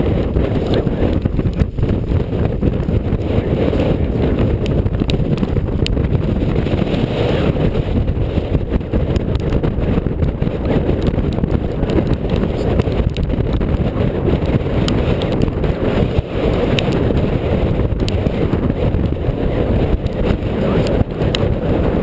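Strong wind buffeting a head-mounted GoPro's microphone: a loud, steady low rumble that rises and falls in gusts.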